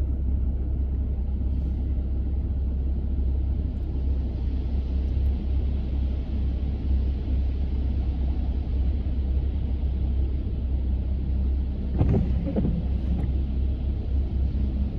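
Car driving, a steady low rumble of engine and road noise. A brief louder clatter comes about twelve seconds in.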